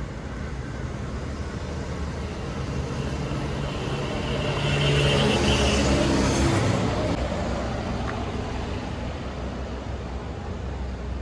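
A motor vehicle passes close by on the road, its engine growing louder to a peak about five seconds in and then fading away, over steady traffic noise.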